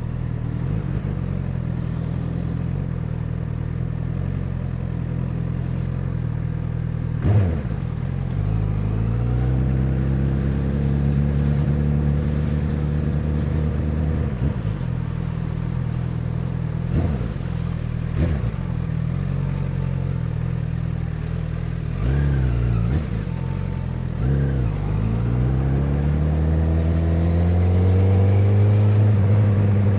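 Honda CBR1000RR's inline-four engine under way, its pitch climbing in several pulls through the gears, each broken by a short sharp gear change and a drop in pitch, around 7, 14, 17 to 18 and 22 to 25 seconds in, and rising again near the end.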